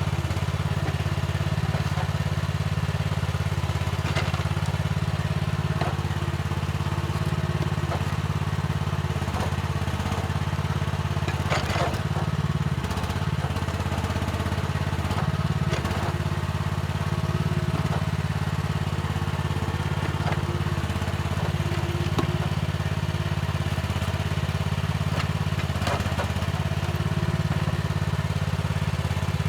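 Mini excavator's diesel engine running steadily at working speed, with a few sharp knocks and clanks as it works the soil.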